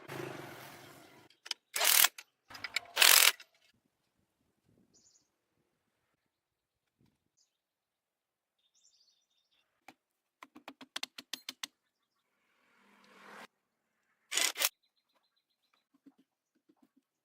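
Intermittent workshop noises: short, loud hissing bursts and a quick run of sharp taps, with quiet gaps between.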